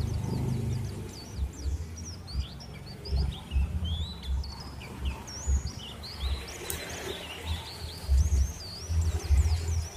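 Small birds chirping and twittering again and again throughout, over irregular short bursts of low hum that come and go every fraction of a second to a second.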